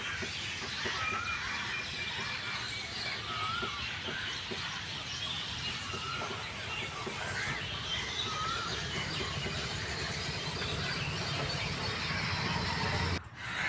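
Birds calling outdoors: one short, up-and-down call repeats every couple of seconds over a steady background hiss, with other faint chirps. The sound drops out briefly near the end.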